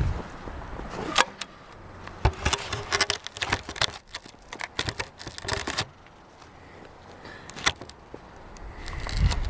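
Handling noise from a camera being set in place on top of a ladder: a scatter of sharp clicks and knocks, with low rumbling near the start and again near the end.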